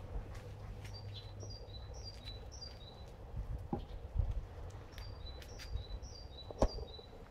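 A small songbird singing two phrases of short, high, falling whistled notes, about two notes a second, over a low background rumble, with a couple of soft knocks.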